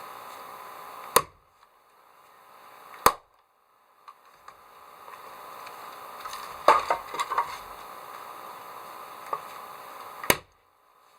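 Firewood being chopped: three sharp, loud chopping strikes, about a second in, about three seconds in and near the end, with a quick run of lighter knocks and cracks in between.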